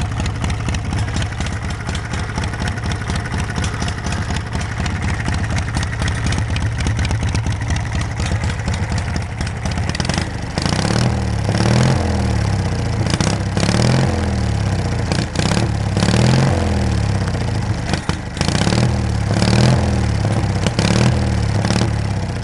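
Homemade tractor's engine running through a new homemade square-tubing exhaust: it idles steadily, then from about halfway it is revved up and let back down five or so times. It runs without backfiring.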